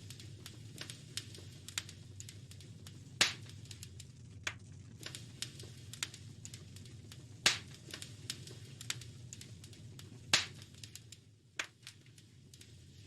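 Wood fire crackling in a fireplace: irregular small crackles with three louder pops spread through, over a steady low rumble.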